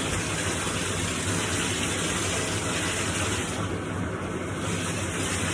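Water running steadily from a tap or shower during a dog's bath in a bathtub.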